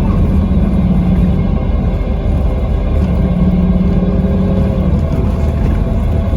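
Scania K320 coach engine and ZF Ecomat drivetrain running under way: a steady low drone that briefly drops away about two seconds in and picks up again around three seconds.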